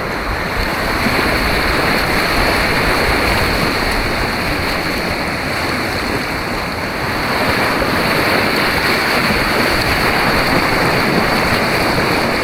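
Steady rush of churning white water on an artificial rapids course, heard close up from a kayak, swelling a little in places.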